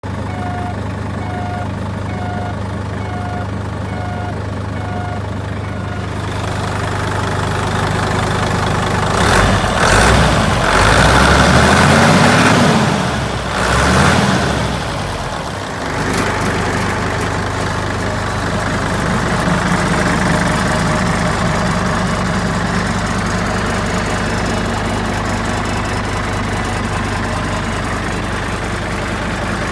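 Hino Ranger truck's diesel engine running at idle, revved twice in the middle, rising and falling in pitch each time, then settling back to a steady idle. For the first few seconds a warning beep repeats about once a second over the idle.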